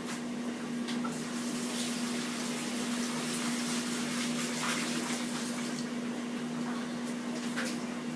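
Washing machine running next door: a steady hum under a rushing, watery noise.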